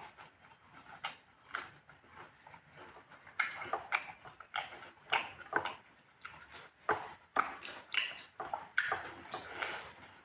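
Close-miked chewing and lip-smacking of someone eating pork: a run of irregular wet smacks and clicks, several a second, growing busier a few seconds in.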